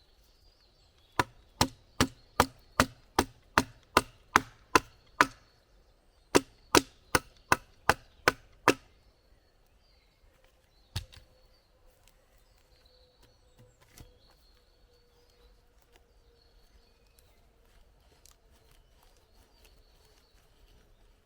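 Wood being chopped with fast, even blows: a run of about eleven strikes, a short pause, about seven more, then a single strike a couple of seconds later. Birds call faintly in the background.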